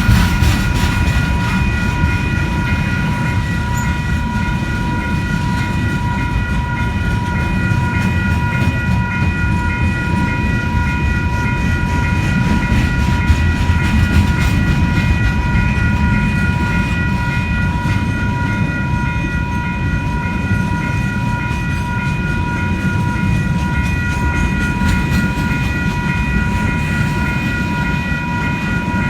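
Freight train wagons rolling past on the rails: a steady low rumble with rail clatter, and a steady high ringing tone of several pitches throughout.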